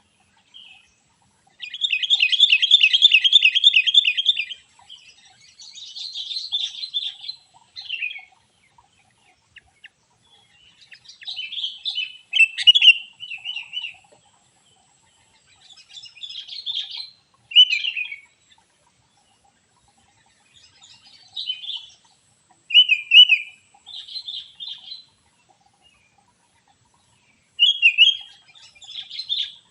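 Songbird chirping and calling in short bursts, with a long rapid trill about two seconds in and shorter sharp phrases every few seconds after.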